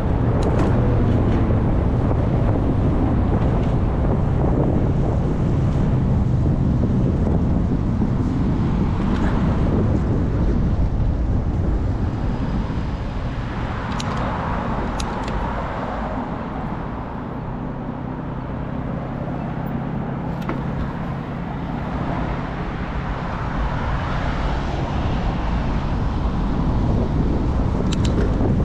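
Road traffic heard from a moving bicycle: cars swell past several times over a heavy rumble of wind buffeting the microphone.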